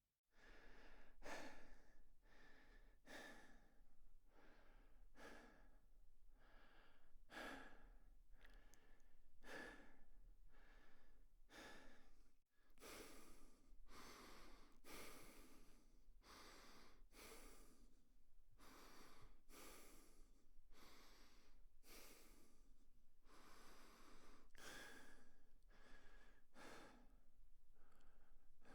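A person breathing heavily through the mouth, one breath about every second, with a brief break about twelve seconds in.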